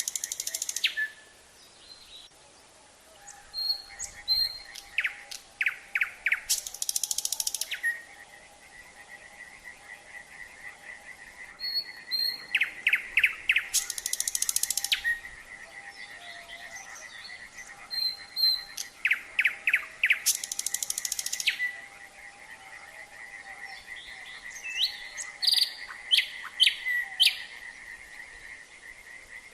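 Nightingale singing at night in three loud phrases, each a quick run of repeated notes ending in a harsh buzzy rattle, with softer scattered notes near the end. Behind it a chorus of frogs keeps up a steady pulsing trill.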